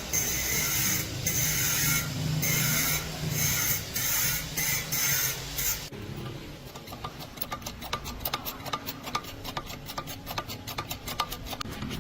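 Repeated rasping strokes, about eight in the first six seconds, like a hand tool scraping or filing a surface, then a quick run of small sharp clicks.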